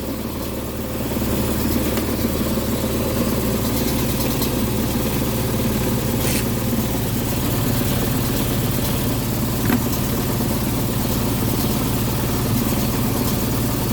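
Damaged indoor HVAC blower running with a steady mechanical hum and heavy vibration, growing a little louder about a second in. The blower is wrecked and vibrating excessively, which the technician blames for intermittent low control voltage.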